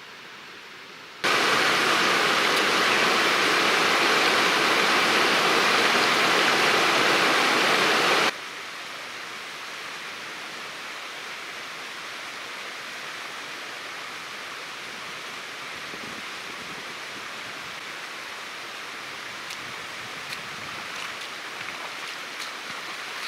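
Rushing river water, a steady noise that jumps much louder about a second in, drops back abruptly about seven seconds later, then runs on at a moderate level with a few faint clicks near the end.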